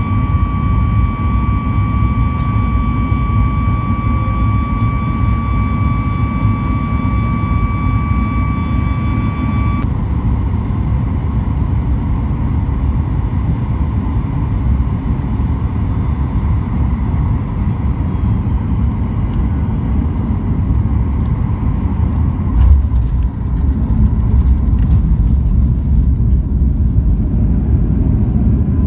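Cabin noise inside a Boeing 737 MAX 8 with CFM LEAP-1B engines: a steady low engine and airflow rumble. A steady whine runs with it and stops abruptly about ten seconds in. A sharp thump comes about two-thirds of the way through, after which the rumble is louder.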